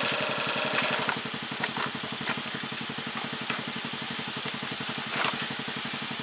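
Repaired cargo tricycle's small engine running steadily with an even beat; a higher whine above it drops away about a second in, leaving it idling, with a few light clicks over the top.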